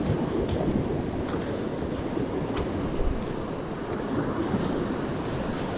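Steady low rumble of wind and surf, with a few faint clicks.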